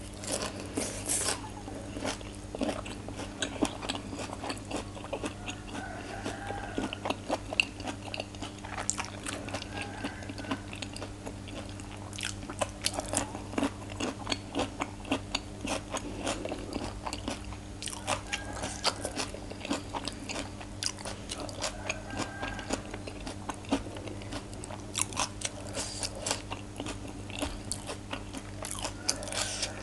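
Close-miked crunching and chewing of crisp raw vegetables and som tam (Thai papaya salad), a steady run of sharp crunches and wet chews with no pause, over a low steady electrical hum.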